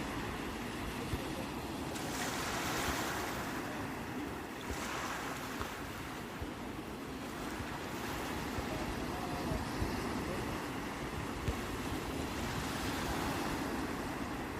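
Sea waves breaking and washing ashore, swelling about two seconds in and again around five seconds, with wind rumbling on the microphone.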